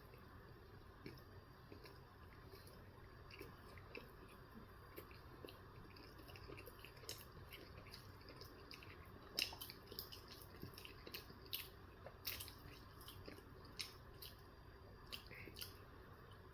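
Faint close-up chewing of a steak, egg and cheese bagel: soft wet mouth clicks and smacks, a few louder ones in a cluster a little past the middle.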